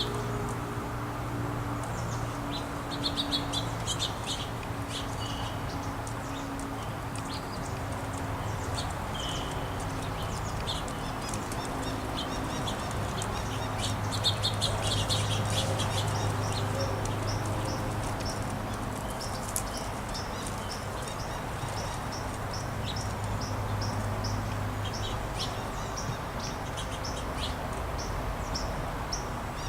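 Small songbirds at a feeder chirping and twittering, many short high notes, with a quicker, more regular run of chirps in the second half. A low steady hum runs underneath.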